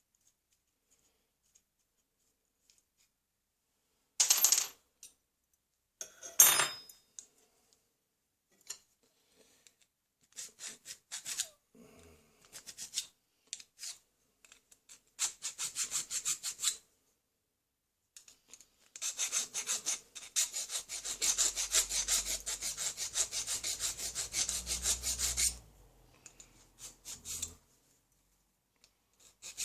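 Hand file rasping on a steel pistol part in bursts of rapid strokes, with a longer, steady run of filing about two-thirds of the way through. Two sharp metallic knocks come a few seconds in.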